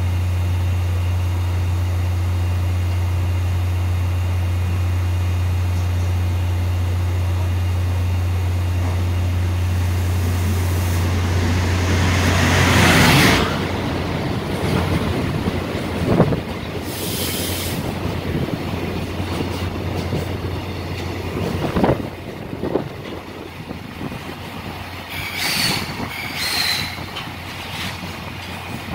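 JR Freight EF510 electric locomotive running through a station at speed with a container freight train. A steady low hum builds as it approaches and peaks as the locomotive passes about halfway through. Then the container wagons rattle by with occasional sharp clacks and brief wheel squeals near the end.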